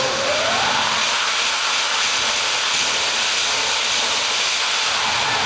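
Jet engine mounted on a golf cart running at high power: a loud, steady hiss with a high whine. The whine climbs in the first second and starts to drop near the end.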